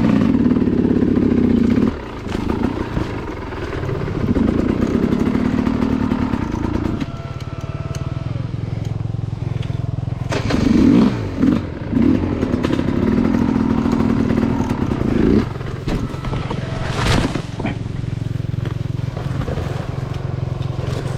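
Enduro dirt bike engine revving up in several bursts and dropping back to a lower steady run in between. A single sharp knock comes near the end.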